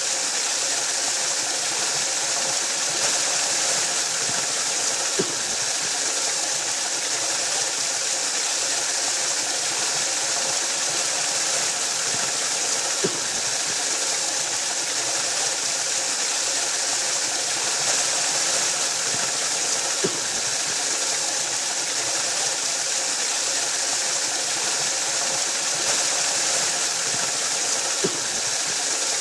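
Waterfall: water falling and rushing in a steady, even hiss, with a brief faint click about every seven or eight seconds.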